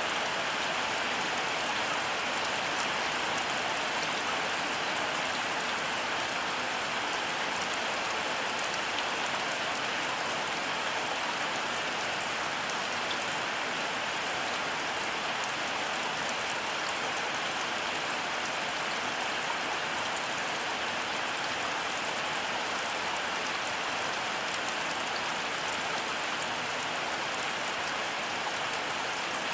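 Heavy rain falling steadily: a dense, even hiss of drops that holds constant throughout, with no thunderclap.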